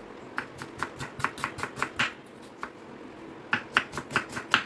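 Kitchen knife chopping vegetables on a cutting board in quick, even strokes, about five a second. It pauses for about a second and a half in the middle, then starts again.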